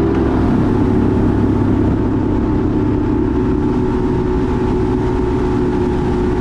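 A motor engine running steadily at speed, with a loud, even hum and rumble.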